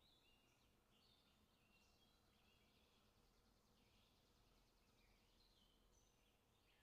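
Near silence with faint bird chirps repeating through it over a low background hiss.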